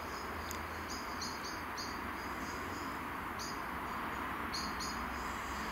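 A two-coach diesel passenger train approaching, a steady low rumble that grows slightly louder, with a small bird giving short high chirps in groups of three or four.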